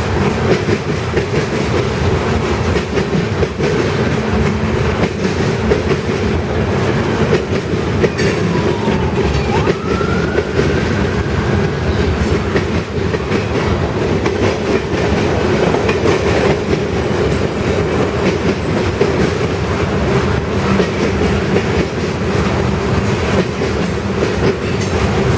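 Norfolk Southern mixed freight train rolling steadily past, its cars' wheels clicking over rail joints in a continuous loud rumble. A faint squeal dips and then rises about eight seconds in.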